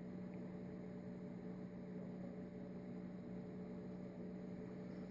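A steady low electrical hum with fainter overtones over faint hiss; nothing else happens.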